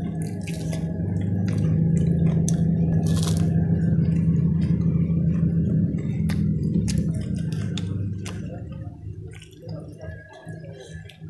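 Close-up chewing of crisp fried vegetable fritters, with sharp crunches and wet mouth clicks. A low steady hum runs underneath and fades out about eight seconds in.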